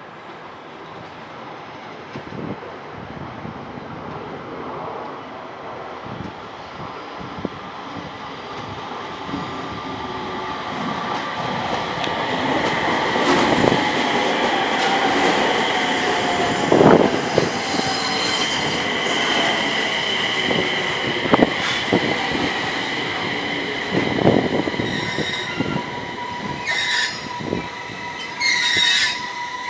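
JR East 701 series electric train pulling into a station: it grows steadily louder as it approaches, with knocks from the wheels over rail joints. Its motor whine falls in pitch as it brakes, and two short, high brake squeals come near the end as it stops.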